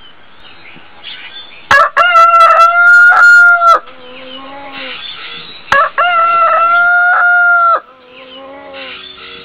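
A rooster crowing twice, each crow a loud, drawn-out call of about two seconds, the second starting about four seconds after the first. Birds chirp faintly in between.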